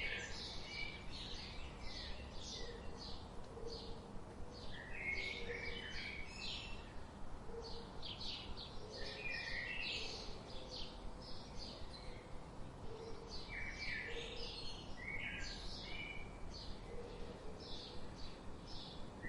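Many small songbirds chirping and twittering together, a dense, continuous run of short high chirps and trills overlapping one another, with faint low notes underneath.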